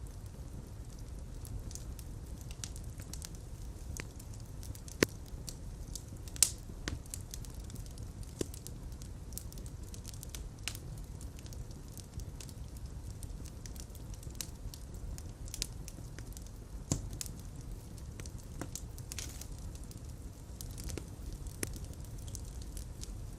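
Fireplace fire burning with a steady low rumble of flames, crackling irregularly, with a few sharper pops at about five, six and a half and seventeen seconds in.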